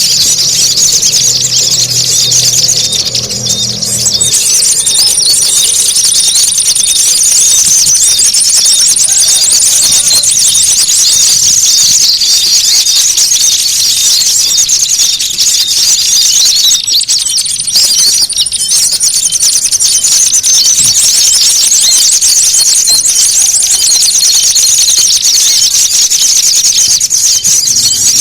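Dense, loud, non-stop chorus of high-pitched small-bird chattering and rapid chirps, an agitated, fighting-sounding lure recording of many small songbirds calling at once, used to draw in small birds.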